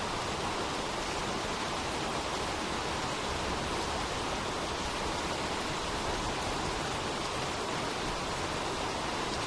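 Steady, dense rain: an even hiss with no single drops standing out.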